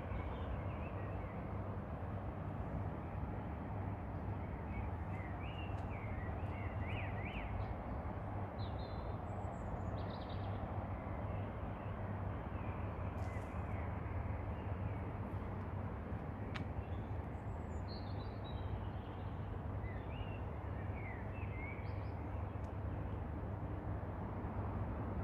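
Several birds chirping and calling at intervals, short high chirps and quick glides, over a steady low background rumble.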